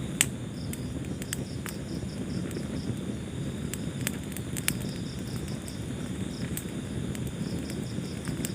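Wood fire burning with a steady low rumble and sharp crackles and pops, the loudest just after the start. Crickets chirp in short repeated trills over it.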